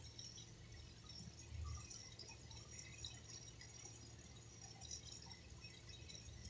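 Water trickling and dripping, faint, with scattered small drops over a steady low hum.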